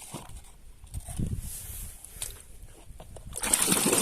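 Faint knocks, then about three seconds in water starts splashing loudly and steadily as mud is washed off a toy truck.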